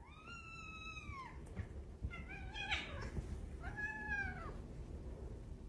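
A domestic cat meowing three times, each meow rising and then falling in pitch, over a low background rumble.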